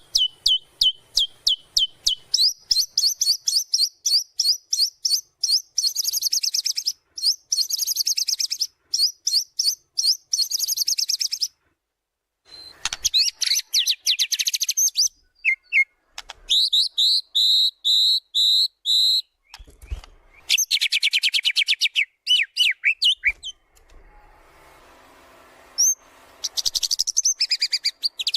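White-rumped shama (murai batu) singing a full, varied song: long runs of rapid repeated high notes and fast trills changing from phrase to phrase, with a short break about eleven seconds in and a quieter gap about two-thirds of the way through.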